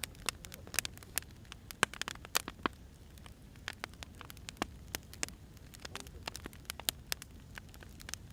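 Burning firewood crackling, with irregular sharp pops and snaps a few times a second over a low steady rumble.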